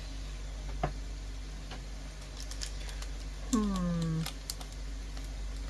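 Scattered light clicks and taps of small objects being handled on a tabletop, over a steady low hum from a room fan. A woman makes a brief vocal sound with falling pitch about three and a half seconds in.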